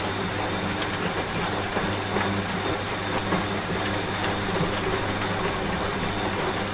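Steady rain falling, mixed with the low, even hum of a washing machine running.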